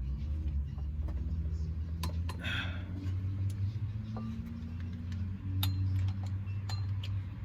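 Low steady drone of an engine running, its pitch shifting slightly, with scattered light clicks and taps.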